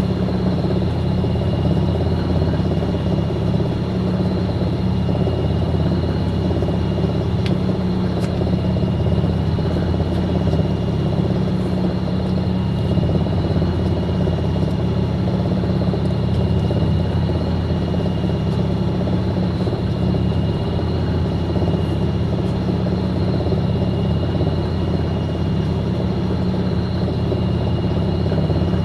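Fisher & Paykel MW059 washing machine spinning: a steady low rumble with a thin, even high-pitched motor whine, unchanging throughout.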